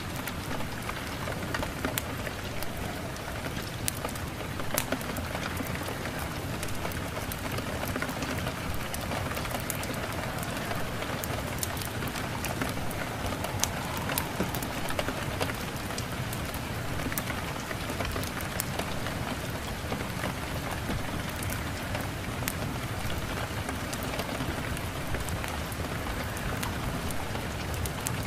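Steady rain: a continuous hiss dotted with many small drop ticks.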